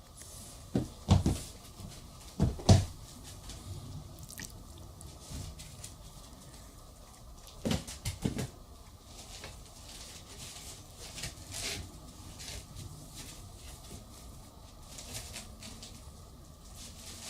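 A child's toys being handled and knocked about: sharp knocks in pairs about a second in and near three seconds in, three more around eight seconds, and lighter taps and rustling in between.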